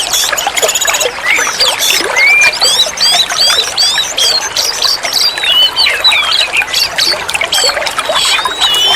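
Oriental magpie-robin (kacer) singing a fast, varied song of short whistled notes that glide up and down, with quick rattling phrases in between.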